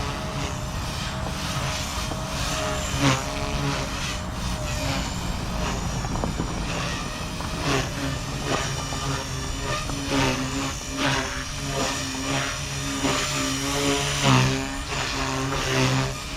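Blade Fusion 180 Smart electric RC helicopter in flight: the motor and rotor whine rises and falls in pitch as it manoeuvres, over low rumbling noise.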